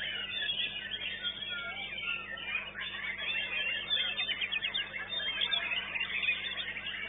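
White-rumped shama (murai batu) singing a busy, varied song of whistles and chirps, with a rapid trill of evenly spaced notes about four seconds in.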